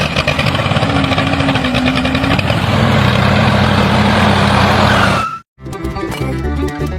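A loud, steady engine-like running noise with a low drone that breaks off suddenly about five and a half seconds in. Rhythmic music resumes right after.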